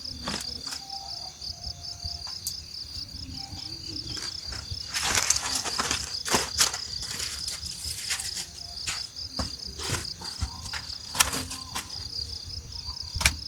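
Crickets chirping steadily in rapid even pulses, with scattered sharp clicks and a brief louder hiss about five seconds in over a low rumble.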